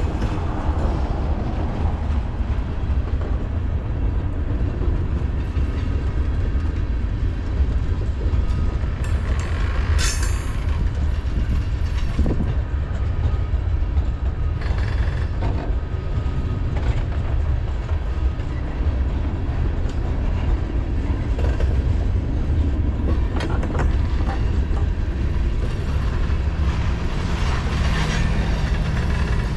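Freight train cars rolling past: a steady low rumble of steel wheels on rail, with scattered clacks and a brief high screech about ten seconds in.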